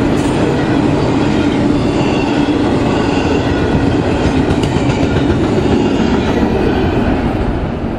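Cars of a double-stack container freight train rolling past: a steady heavy rumble of steel wheels on rail with clickety-clack over the rail joints and faint wheel squeal, easing off slightly near the end.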